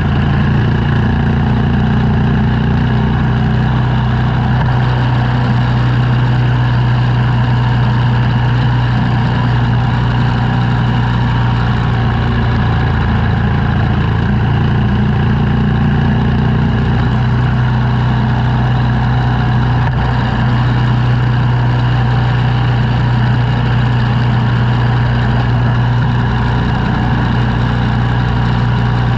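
Engine of snow-clearing equipment running steadily at a constant speed.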